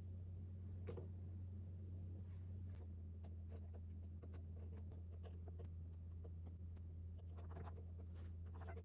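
Handwriting: short, scattered scratching and tapping strokes of a pen or stylus writing, over a steady low hum.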